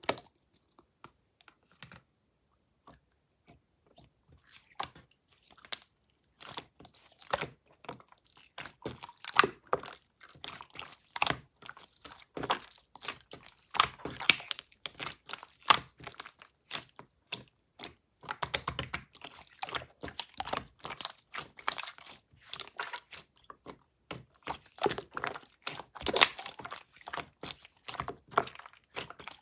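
Slime being squeezed and pressed by hand, giving rapid crackling clicks and small pops. Only a few scattered clicks at first, then near-continuous from about six seconds in.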